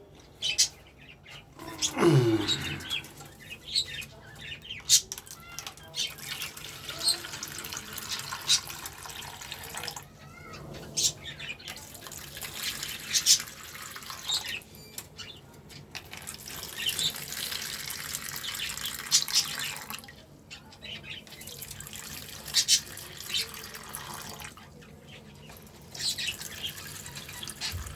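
Water running and splashing in several spells of a few seconds each, with short gaps between, as lemon water with a little salt is mixed.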